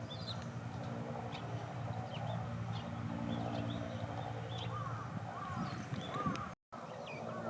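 Eurasian tree sparrows giving short, scattered high chirps over a steady low hum, with a few lower arching calls from a bird about two-thirds of the way through. The sound cuts out completely for a moment near the end.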